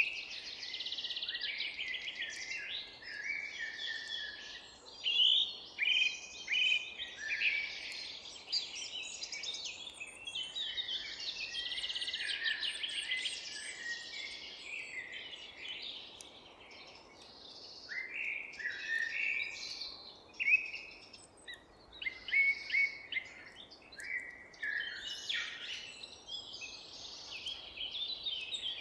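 Several forest songbirds singing at once: a dense chorus of overlapping chirps, trills and short whistled phrases, with a faint steady background hiss.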